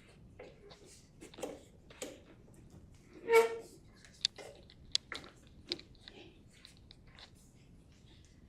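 Scattered sharp metallic clicks and taps of a hand tool turning and tightening a bike's through axle, with one brief, louder pitched squeak about three seconds in.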